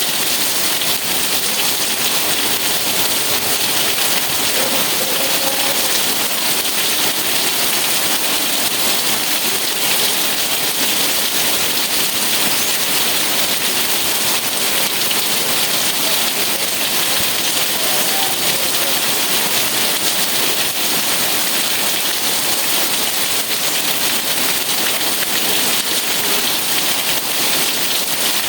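Steady rain falling and pattering on surfaces, an even hiss that holds at the same strength throughout, with no thunder.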